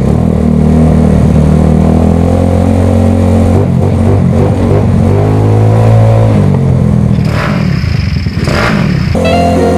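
Motorcycle engine revving, its pitch rising and falling. Near the end it gives way to music.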